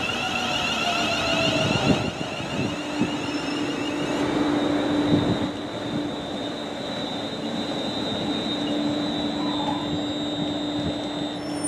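A London Northwestern Railway electric multiple unit draws into the platform and slows to a stop, with a few clunks in the first five seconds. It then stands with a steady electrical whine and hum from its onboard equipment.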